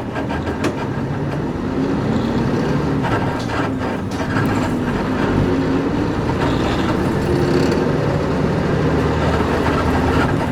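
Interior running sound of a Nissan Diesel KC-UA460LSN one-step bus on the move. Its PG6 diesel engine's pitch rises and falls with speed over steady road noise, with occasional short clicks and creaks from the leaf-sprung body.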